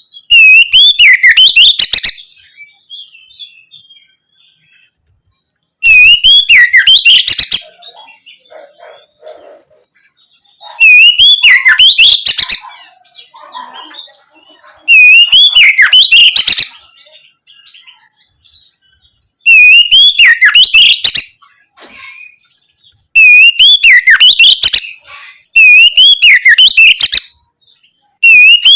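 Oriental magpie-robin (kacer) singing loud phrases of rich, fast whistled notes, each about two seconds long, repeated every four to five seconds with soft quieter notes in between.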